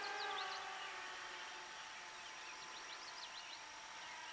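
Faint, steady whine of a radio-controlled model airplane's motors in flight, its pitch bending slightly in the first second before it settles and fades a little.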